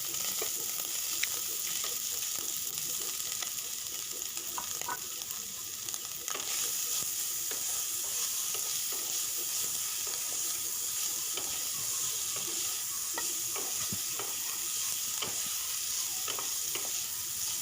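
Soaked soybean chunks frying in hot oil in a kadai, a steady sizzle with scattered small crackles and the light scrape and clink of a spatula stirring them. The sizzle gets a little louder about six seconds in.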